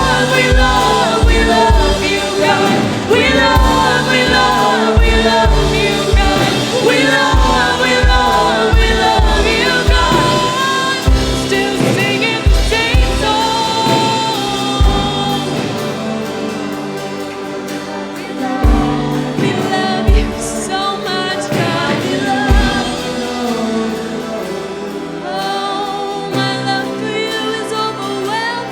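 Live contemporary worship music: singers holding sustained melody lines over a full band with a steady kick-drum beat. The drums thin out about two-thirds of the way through while the singing and keys carry on.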